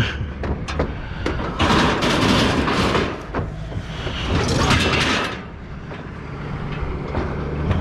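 Heavy scrap metal being dragged and scraped out of a load, two long grinding scrapes with knocks in between, over a steady low engine hum.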